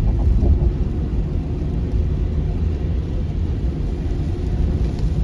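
Steady low rumble of a car's engine and tyres heard from inside the cabin while driving at highway speed on a snowy road.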